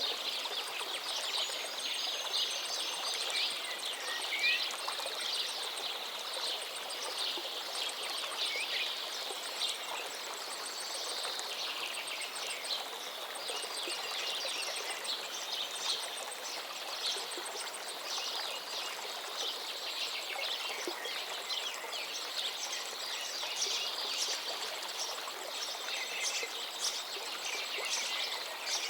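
A river flowing with a steady rushing sound, with many birds chirping and singing over it in quick, overlapping calls.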